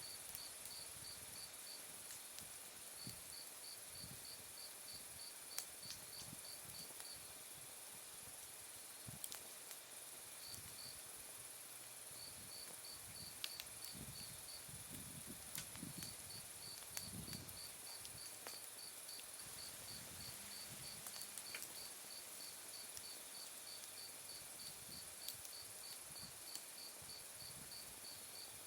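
Autumn night insects singing: a high chirp pulsed about three to four times a second in runs with short pauses, over a steady higher trill. A few sharp pops come from firewood crackling in an open campfire.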